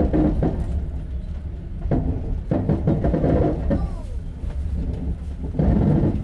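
Inside a moving sleeper-class passenger train carriage: the steady low rumble of the train running on the rails, with a few louder, short sounds coming and going over it.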